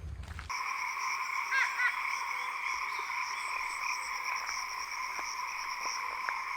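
A steady chorus of calling animals, a dense, even trilling that starts abruptly about half a second in, with two short chirps a little later.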